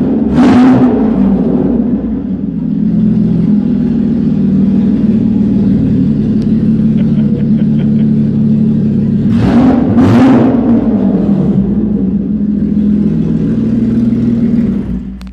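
BMW E36's M50 straight-six exhaust idling steadily. It is revved briefly about half a second in, then blipped twice in quick succession around ten seconds in before settling back to idle.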